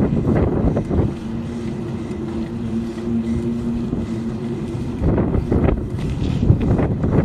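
Wind buffeting the microphone of a camera on a moving bicycle. From about one to five seconds in the buffeting eases and a steady low hum from an engine or motor is heard.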